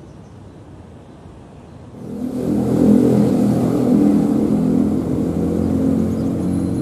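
Aircraft engines at takeoff power, a loud rumble with several steady low tones that comes in suddenly about two seconds in and then slowly eases.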